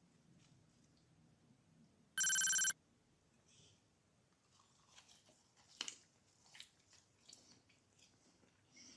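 A single loud electronic beep about two seconds in, lasting about half a second, followed by faint scattered clicks and crinkles.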